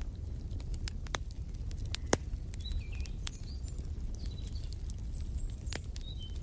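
Wood fire in a fireplace crackling over a low steady rumble, with scattered sharp pops; the loudest comes about two seconds in. Small birds give brief high chirps several times from about three seconds on.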